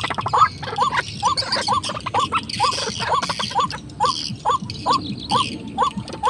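A bird calling steadily, a short upward-hooked note repeated about two and a half times a second, with fainter higher chirps above it.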